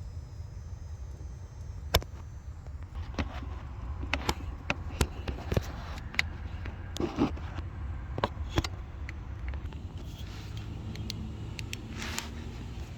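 Audi Q5's 2.0 T turbocharged four-cylinder engine idling with a steady low rumble, overlaid by irregular sharp clicks and knocks, the loudest about two seconds in.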